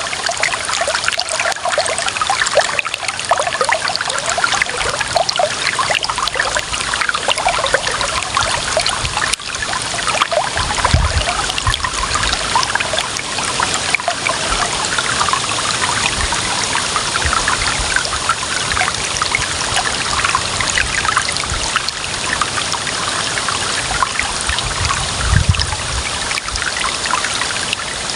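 Clear running water trickling and splashing in a steady, bubbling flow, with two brief low rumbles, about eleven and twenty-five seconds in.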